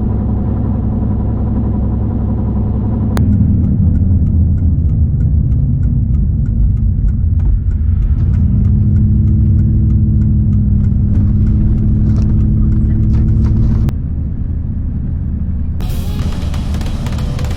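A motor vehicle running, a steady engine drone over low road rumble, its note changing abruptly about three seconds in and again near fourteen seconds. Music comes in near the end.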